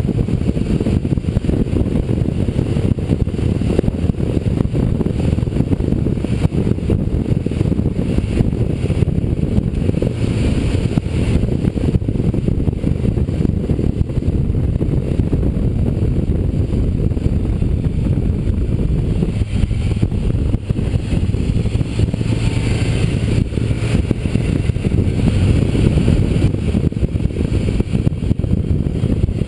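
Motorcycle riding at road speed, heard through a GoPro camera mount: a steady heavy wind rumble with the engine running underneath.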